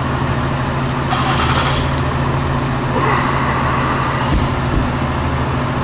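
A vehicle engine idling steadily, with short bursts of hiss about a second in and again around three seconds in.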